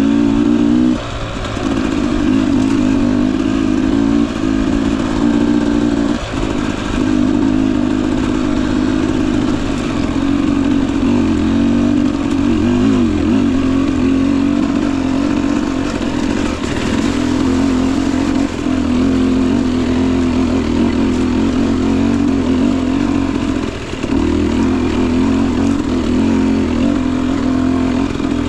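Two-stroke single-cylinder engine of a 2021 Husqvarna TE 250i TPI dirt bike running steadily on the trail. Its pitch wavers slightly with small throttle changes, and it briefly drops off about a second in, around six seconds and near the end.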